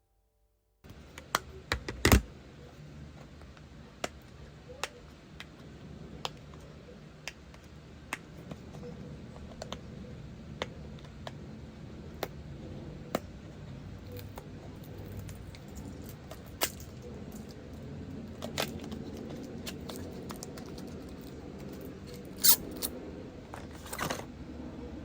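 Light clicks and taps from small objects being handled, roughly one a second, over a steady low room noise. A sharper clack comes about two seconds in, and two more come near the end.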